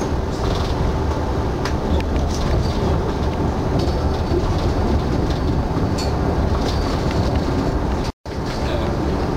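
Passenger train running, heard from inside the carriage: a steady low rumble with scattered sharp clicks of the wheels over the track. The sound cuts out abruptly for a moment near the end.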